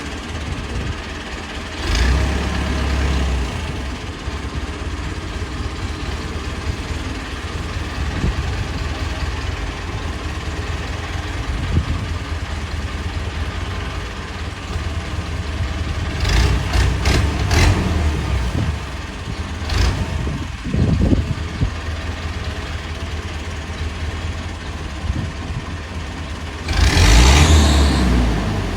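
Tractor's diesel engine running steadily with a low rumble, with louder surges about 2 seconds in, around the middle, and again near the end.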